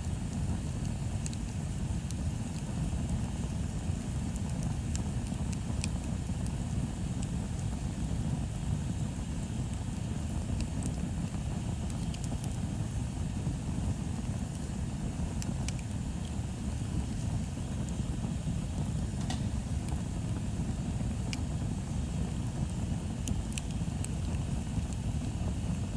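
Bonfire burning: scattered sharp crackles and pops over a steady low rumble.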